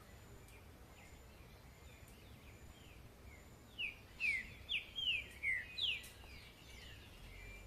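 A songbird singing a phrase of about six loud, clear whistled notes, each sliding downward, about halfway through, among faint chirps from other birds.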